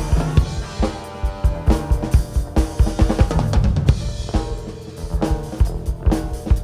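Live rock band playing an instrumental passage: a drum kit keeps a steady beat with kick, snare and cymbals under sustained bass and other pitched instruments, with no vocals.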